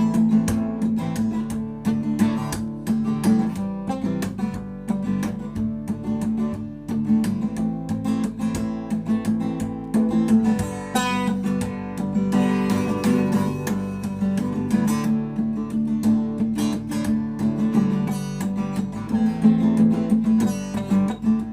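Acoustic guitar being strummed with a steady rhythm of dense, repeated strokes.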